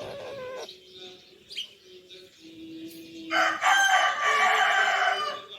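A loud, drawn-out bird call lasting about two seconds, starting a little past halfway, after fainter chirping sounds.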